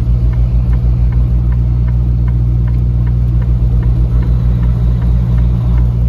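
Semi-truck engine running with a steady low drone, heard from inside the cab while the truck creeps along in slow traffic. A faint, regular tick sounds about three times a second over the drone.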